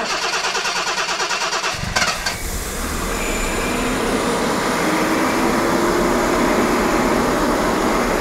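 Jaguar XK straight-six engine turned over by the starter with a rhythmic chug for about two seconds, then catching and running at a steady fast cold idle, its idle a little bit high.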